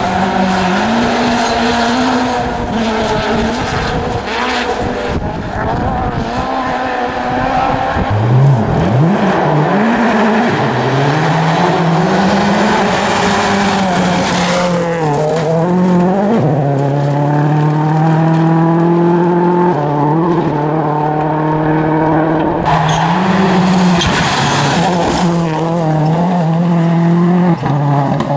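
Rally car engine revving hard through the gears, its pitch climbing and then dropping sharply at each of several gear changes, with bursts of tyre noise as the car slides.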